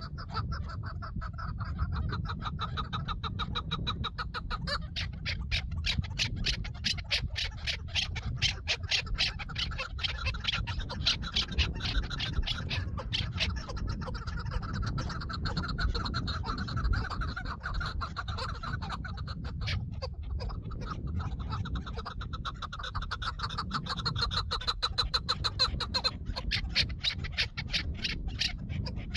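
Chukar partridges calling: long runs of rapid, repeated clucking notes, over a steady low rumble.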